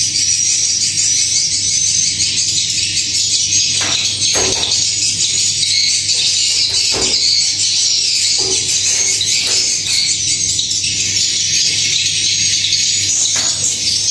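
Constant, dense high-pitched twittering of edible-nest swiftlets filling a swiftlet house, over a steady low hum. A few sharp clicks sound about four seconds in, about seven seconds in and near the end.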